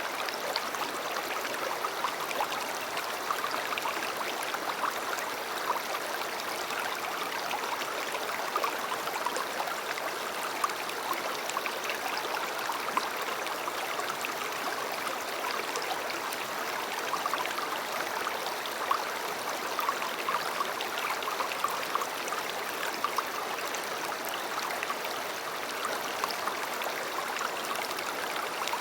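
A river or stream flowing steadily, a continuous rush of water with small splashes and trickles through it.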